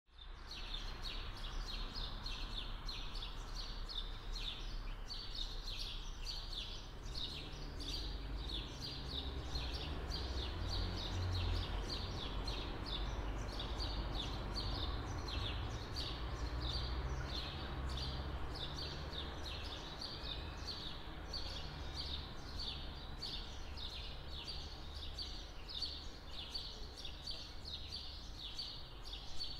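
Small birds chirping in quick, repeated short calls, several a second and without pause, over a steady low background rumble.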